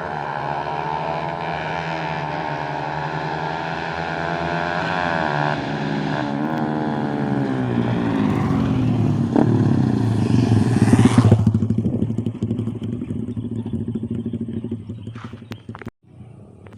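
Racing motorcycle engines at full throttle, pitch climbing through the gears with a drop at each shift. The sound grows loudest as the bikes come close about ten seconds in, then fades away.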